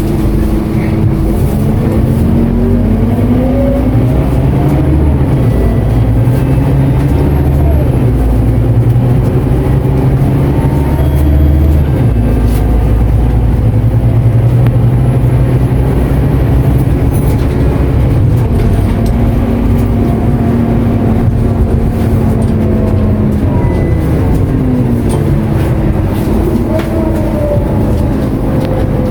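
Scania K230UB Euro IV bus's 9-litre five-cylinder diesel engine heard from inside the cabin as the bus drives. The engine note rises in pitch a few seconds in, holds steady through the middle, and rises again near the end.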